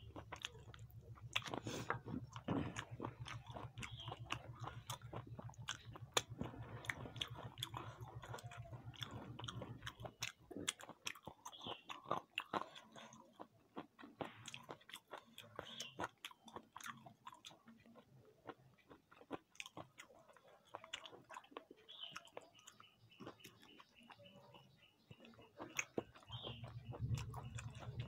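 A person chewing and biting food, with many small mouth clicks and occasional crunches.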